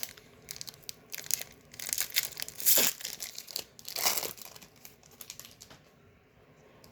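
Foil booster pack wrapper crinkling and tearing open, in a run of short bursts with two louder ones about three and four seconds in, dying away after about five seconds.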